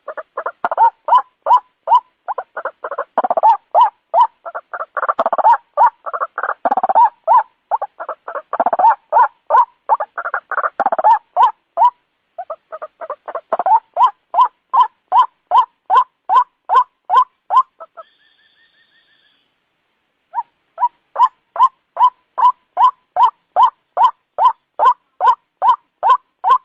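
White-breasted waterhen (ruak-ruak) calling: loud, rapidly repeated notes, about three a second, overlapping densely in the first half. The calling stops for about two seconds two-thirds of the way through, leaving only a faint high trill, then resumes in an even series.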